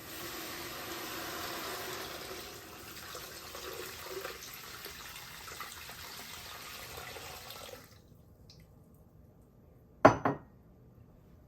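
Water running from a tap, cut off about eight seconds in, then two sharp knocks close together near the end.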